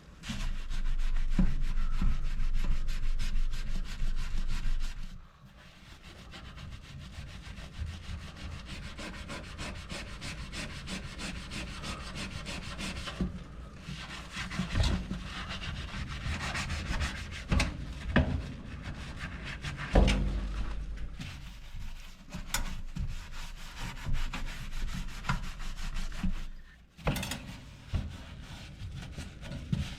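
Hand scrubbing of a greasy toaster oven with a dish soap and vinegar mix: continuous rubbing and scraping with scattered knocks, loudest for the first five seconds or so.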